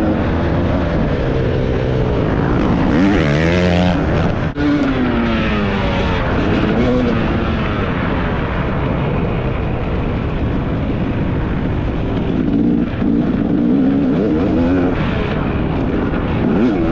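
Dirt bike engine revving hard, its pitch climbing and dropping again and again as the throttle is worked. There is a brief break in the sound about four and a half seconds in.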